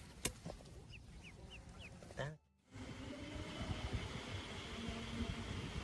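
Ducklings peeping in short, high chirps that slide in pitch, with a sharp click near the start. The chirps stop at a cut about two and a half seconds in. After it come a steady hiss and low rumbling knocks.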